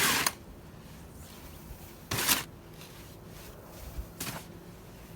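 Snow shovel pushing and scooping through deep snow: three short strokes about two seconds apart, the last one fainter.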